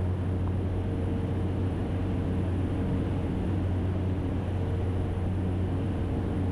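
Cessna Caravan's single PT6A turboprop engine and propeller droning steadily at climb power, heard inside the cockpit: a constant low hum with a fainter, higher steady tone over a wash of engine and air noise.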